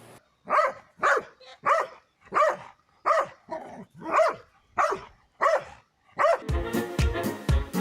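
A dog barking about ten times in quick succession, roughly two short barks a second, each rising and falling in pitch. Music with a steady beat starts about six and a half seconds in.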